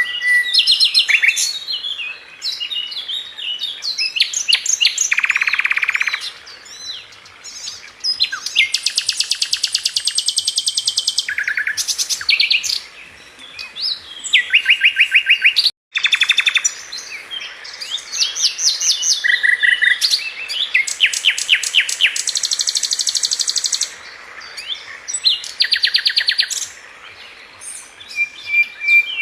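Songbird sold in Indonesia as Sikatan London (a flycatcher) singing a fast, varied song: quick trills and runs of rapidly repeated high notes, some buzzy, in phrases broken by short pauses. The sound cuts out for an instant about 16 seconds in.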